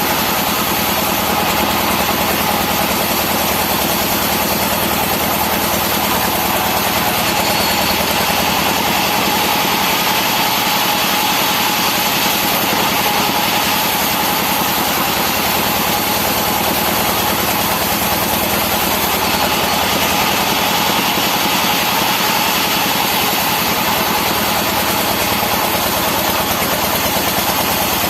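Engine-driven saw machinery running steadily at a constant speed, with a steady hum and whine that does not change for the whole stretch.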